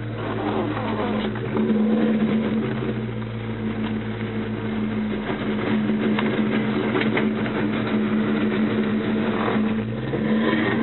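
Car engine running steadily, heard from inside the cabin of a Ford Mustang.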